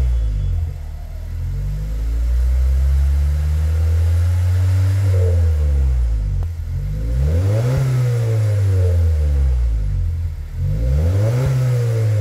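Exhaust of a 2018 Honda CR-V's 1.5-litre turbo four-cylinder, fitted with a catless downpipe and a dual-outlet aftermarket muffler, as the engine is revved up and let fall back about three times.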